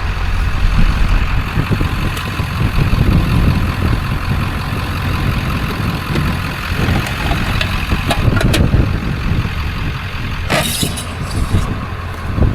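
Vehicle engine and road noise while driving, a steady low rumble. A few clicks come about eight seconds in, and a short burst of noise near the end.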